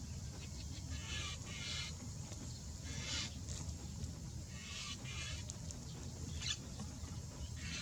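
A bird giving short, harsh calls, repeated every second or two, over a steady low rumble.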